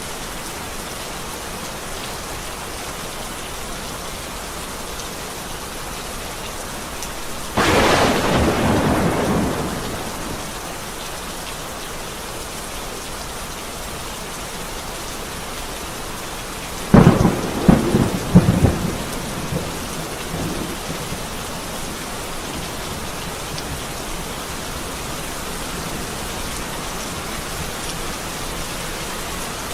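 Steady rain falling through a thunderstorm. About a quarter of the way in, a clap of thunder breaks suddenly and rumbles away over a couple of seconds. A little past halfway comes a louder, closer thunder: several sharp cracks in quick succession, then a short rumble.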